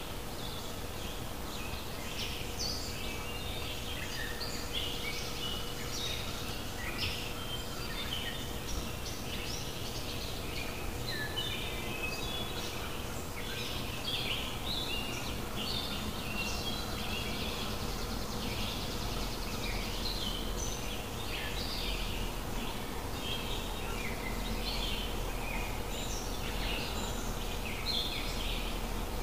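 Several birds chirping and singing at once, a dense chorus of short, quick notes that runs on without a break, over a faint steady hum.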